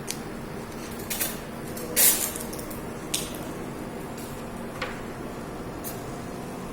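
CW-5200TH laser-tube water chiller running with a steady hum, while several short clicks and knocks of handling sound over it; the loudest is a brief rustling burst about two seconds in.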